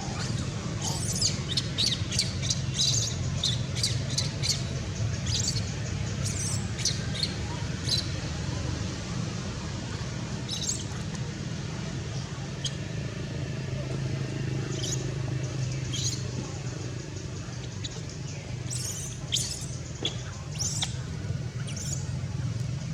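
Many short, high-pitched squeaks and chirps, coming in quick clusters at first, then sparser, then clustered again near the end; typical of a baby monkey's squeaking calls. A steady low hum runs underneath.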